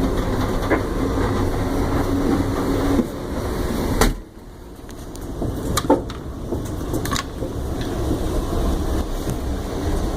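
A moving train heard from on board: a steady low rumble with a few sharp clicks and knocks. About four seconds in, after a knock, the sound drops off suddenly and then slowly builds back up.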